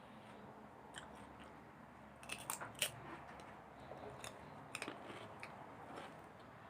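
A person chewing and biting flame-grilled beef close to the microphone: wet mouth sounds with sharp crisp clicks, loudest in a quick cluster about two and a half seconds in and a few more a couple of seconds later.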